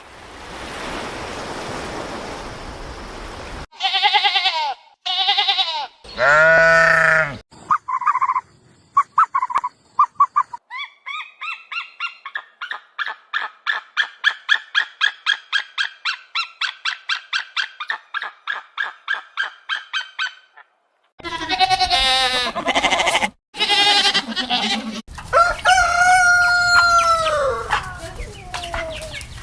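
Chickens: a rooster crowing and hens clucking in a long run of quick repeated notes, heard as several separate calls with short breaks between them.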